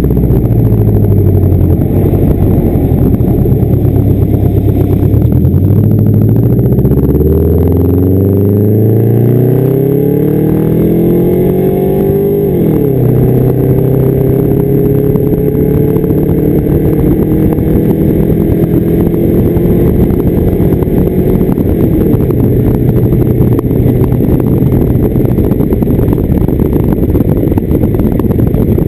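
Straight-piped exhaust of a 1992 Subaru Legacy's flat-four engine, with the car under way. The revs fall, then climb steadily for several seconds, drop sharply at a gear change about twelve seconds in, rise again more gently and then hold fairly even.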